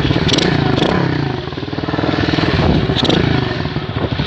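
M2R KX110F pit bike's four-stroke engine running and being revved. The engine note drops about half a second in, climbs again, then falls off near the end.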